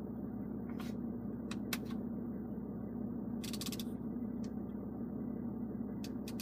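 Steady low hum of the BMW X5 xDrive40d's 3.0 turbo diesel idling, heard inside the cabin. A few sharp clicks sit over it, with a quick run of ticks about three and a half seconds in.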